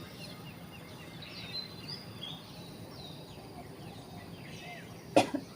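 Faint birdsong, short chirping and whistled notes from small birds, over steady outdoor background noise. A brief sharp knock near the end is the loudest sound.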